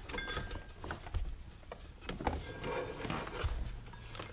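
Scattered light clicks, knocks and rubbing from parts being handled by hand around the engine's accessory belt pulleys.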